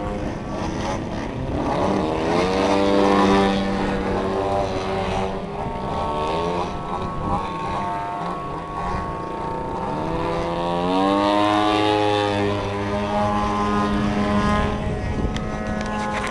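Engines of large radio-controlled aerobatic model airplanes running in flight, their propeller note sweeping up and down in pitch several times as they manoeuvre and throttle.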